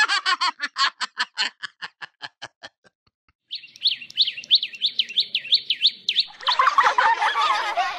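A rapid 'ha-ha-ha' laugh sound effect fading away over about three seconds. After a brief silence comes quick, repeated high bird chirping, about four chirps a second, which gives way near the end to a busier mix of bird calls.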